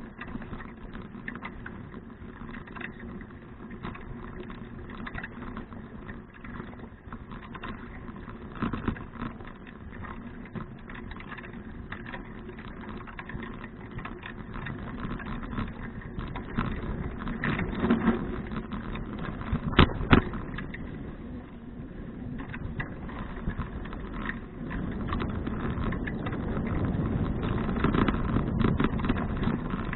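Bicycle ride heard through a bike-mounted action camera: tyre and wind noise with frequent rattling clicks, growing louder in the second half, and a sharp knock about two-thirds of the way through.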